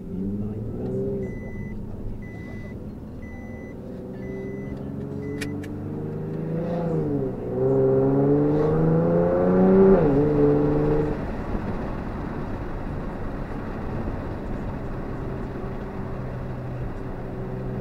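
Nissan 370Z's 3.7-litre V6 with a custom exhaust, heard from inside the cabin while driving. The engine note climbs twice, dipping briefly about seven seconds in and peaking at its loudest about ten seconds in, then drops and settles to a steady cruise.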